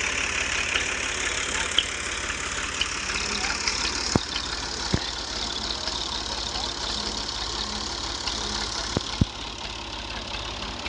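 Tractor engine idling with a steady low, even throb, and a few sharp knocks about four and five seconds in and twice in quick succession just after nine seconds.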